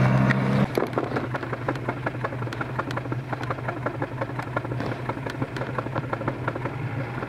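Vehicle engine running. Its note eases off less than a second in, then holds steady at a low speed, with frequent irregular clicks and rattles over it.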